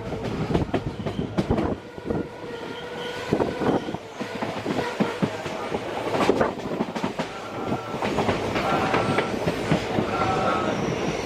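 Passenger train wheels running over rail joints and points, heard from on board: an uneven run of clicks and knocks over a steady rolling rumble, with faint tones coming and going.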